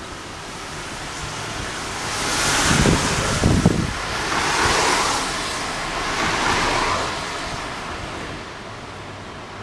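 Strong storm wind blowing in gusts, swelling and easing about three times, with low thumps of wind buffeting the microphone a few seconds in.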